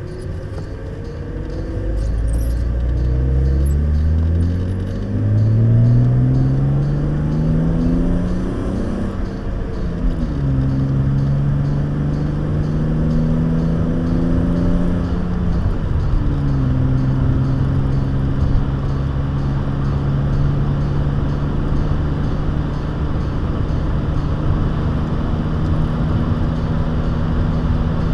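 BMW E36 323i's straight-six engine with a stainless aftermarket exhaust, heard from inside the cabin. The revs climb steadily as the car accelerates, drop with an upshift about ten seconds in and again a few seconds later, then hold steady for the rest of the time.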